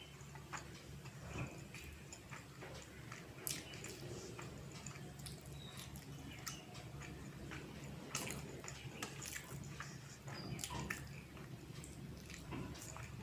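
Close-up chewing of a rice and curry meal: soft wet mouth sounds with scattered small clicks.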